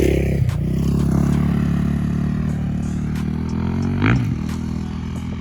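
Suzuki RM-Z450 single-cylinder four-stroke dirt bike engine running under throttle on a motocross track, with a brief dip and rise in pitch about four seconds in.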